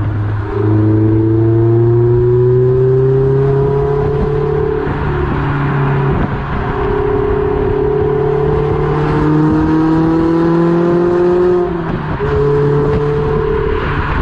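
Mazda MX-5 ND four-cylinder engine running through an Ulter sport exhaust, pulling under load. Its pitch climbs steadily and breaks off with a drop at gear changes, about five and twelve seconds in.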